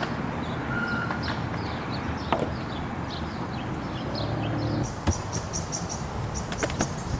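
Birds chirping in short, high calls, some falling in pitch, with quicker and higher chirps after about five seconds, over a steady low rumble.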